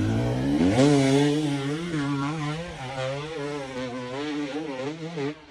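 Small motorcycle engine held at high revs, its pitch wavering up and down as the throttle is worked, slowly fading before cutting off near the end.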